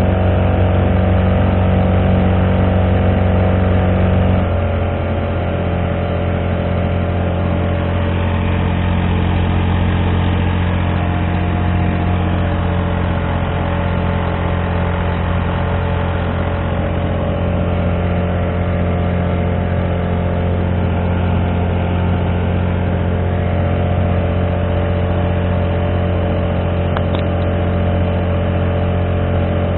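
Honda GX35 35cc four-stroke engine driving a kayak, running steadily; about four and a half seconds in its note drops to a lower engine speed and then holds there.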